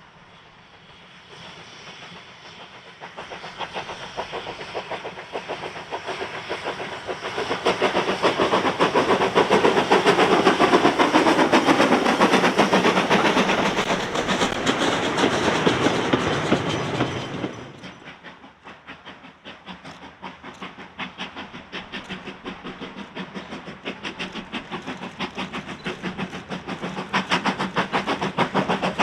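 A train passing: it grows louder over the first several seconds, stays loud for a while, then cuts off suddenly about two-thirds of the way in. A fast, even beat of wheels or exhaust follows and grows louder near the end.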